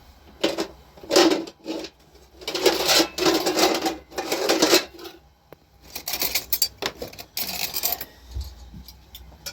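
Clattering and scraping of metal objects in short bursts, with the loudest and longest stretch in the first five seconds and softer clatter later.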